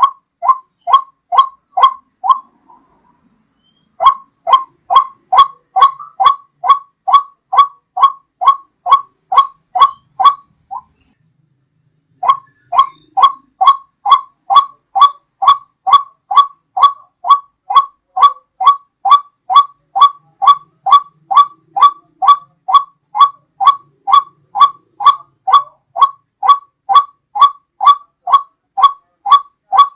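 White-breasted waterhen calls played as a trapping lure: one loud, clear note repeated about twice a second, each note dropping in pitch. The calls come in three runs, with short pauses about 2.5 and 11 seconds in.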